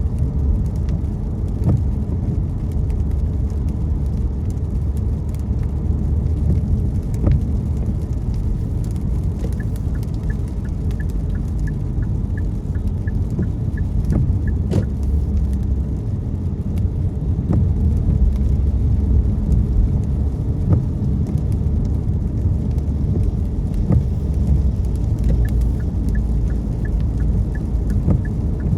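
Steady low road and engine rumble inside a car's cabin, driving in rain, with scattered faint taps. Twice, an even ticking of about two clicks a second runs for several seconds: the turn-signal indicator.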